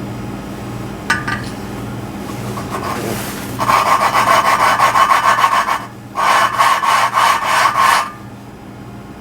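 Intake valve of a BMW 325xi cylinder head being lapped into its seat with valve grinding compound, the valve spun back and forth on a suction-cup lapper so that its face grinds against the seat with a fast gritty rasp. It comes in two bouts of about two seconds each, with a short pause between them.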